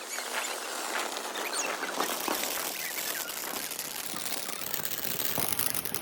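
Fireworks crackling: a dense, continuous fizz of many tiny rapid pops, with no big booms.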